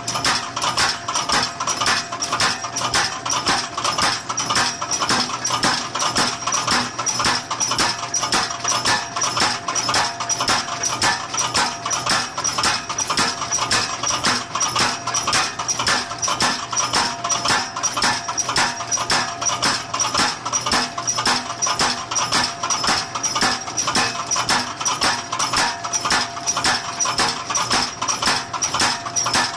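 Mechanical power hammer running, its ram striking in a rapid, even rhythm with a metallic ring, over a steady faint whine from the drive.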